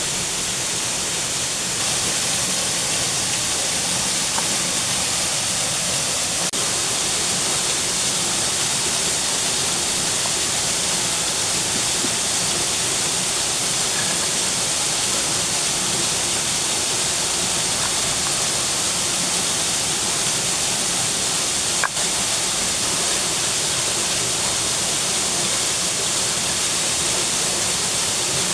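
Steady rushing water of a waterfall, an even unbroken hiss, with one brief click about three quarters of the way through.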